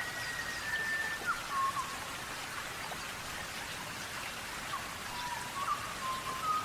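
Birds dust-bathing in sand: a steady patter and hiss of flicked sand, like light rain, with short clear whistled calls at steady pitches, several in the first two seconds and more near the end.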